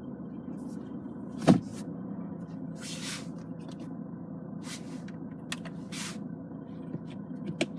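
Mercedes C250 CDI four-cylinder turbodiesel idling steadily, heard from inside the cabin as a low hum. A sharp click about one and a half seconds in, the loudest sound, with a few brief rustles later.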